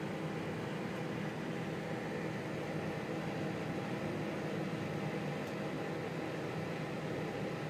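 Microwave oven running, with a steady electrical hum under a whirring fan noise, heating a Cadbury's Creme Egg.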